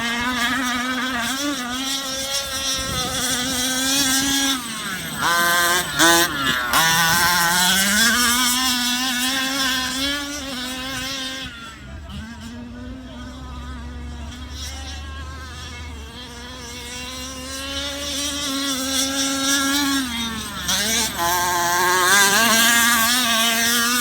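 Fully modified OBR 30.5cc two-stroke engine in a Losi Monster Truck XL, running through an unsilenced Victory R/C pipe. It buzzes at high revs, rising and dipping in pitch as the throttle is worked. It grows fainter and duller for a few seconds midway, then comes back up.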